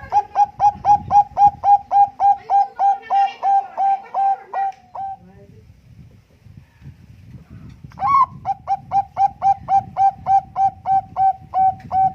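Zebra dove (Bangkok-type perkutut) singing: two long phrases of rapid, evenly spaced cooing notes, about four or five a second, with a pause of roughly three seconds between them. The second phrase opens on a higher note.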